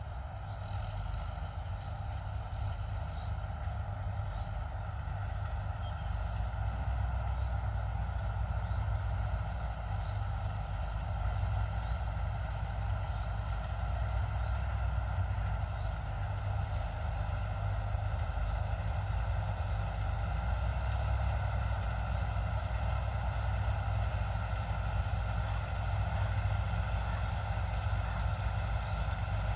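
Large John Deere harvest machine's diesel engine running steadily under load, a continuous low drone with constant higher machine tones above it.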